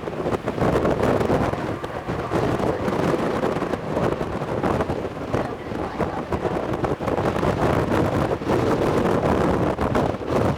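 Gusty wind buffeting the microphone over the steady roar of an Airbus A220's Pratt & Whitney geared turbofan engines at takeoff power.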